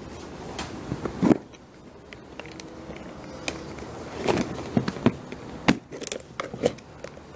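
Plastic salad spinner spin-drying wet cloth liners: irregular plastic clicks and knocks, with a faint whir in the middle.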